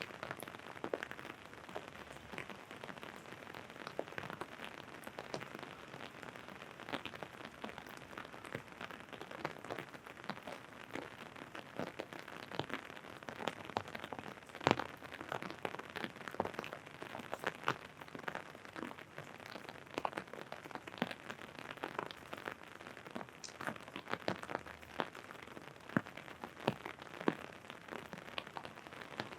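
Rain falling steadily, with irregular drops tapping sharply on an umbrella canopy overhead.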